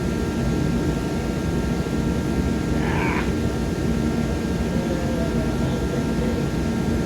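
Garage space heater running with a steady, even rushing noise and a faint steady hum. A brief higher-pitched sound comes about three seconds in.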